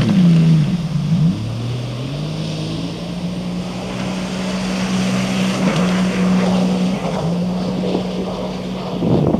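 Sea-Doo RXP-X 255 jet ski's supercharged three-cylinder engine running on the water. The engine note drops about half a second in, climbs back over the next second or two, then holds steady.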